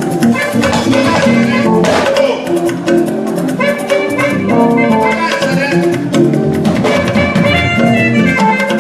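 Instrumental band music with drum kit and guitar playing a steady, busy rhythm, between verses of a Yoruba gospel song.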